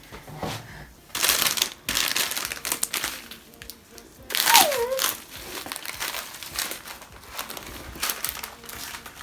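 Crinkling and rustling in bursts, as of something being handled, with a short falling voice-like sound about four and a half seconds in.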